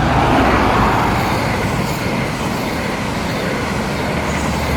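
High Speed Train with Class 43 diesel power cars passing through at speed: a steady, loud rush of engine and wheel noise.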